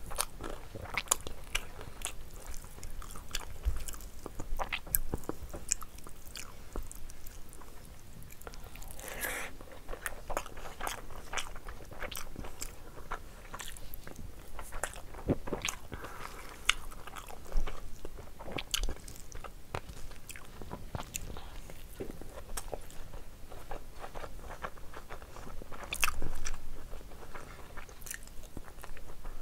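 A person chewing mouthfuls of rice and curry, eaten by hand, with many irregular wet mouth clicks and occasional crunches.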